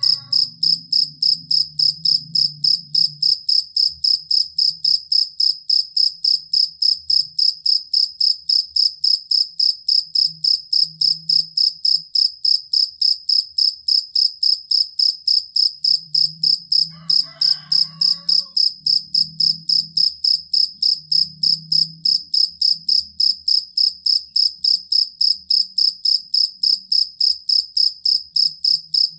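Field cricket (jangkrik kalung) calling: a loud, high-pitched chirp repeated evenly about three times a second.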